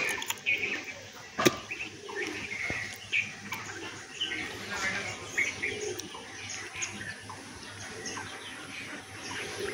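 Small birds chirping in short, repeated calls, with a sharp knock about a second and a half in.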